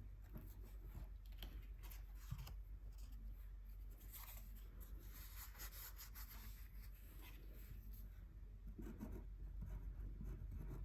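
Faint, soft strokes and rubbing on paper, the scratch of paint or pen being worked across a swatch sheet, over a low steady hum.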